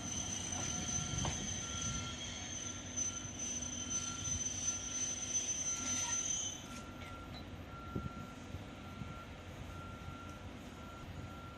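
Alishan Forest Railway train at the station, with a repeating electronic beep throughout. A high steady whine cuts off about six and a half seconds in, and the sound drops a little quieter after it.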